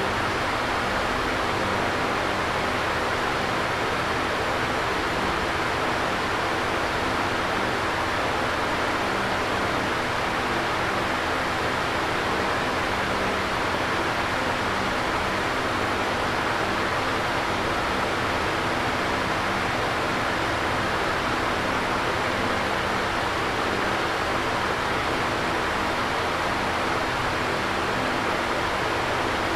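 Electric fan running steadily: an even rush of moving air with a faint low hum underneath, unchanging throughout.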